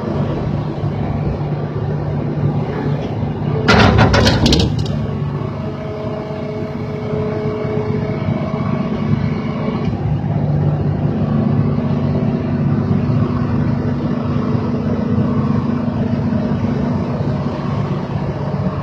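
Excavator's diesel engine running steadily under digging load, with a loud burst of cracking and crunching about four seconds in.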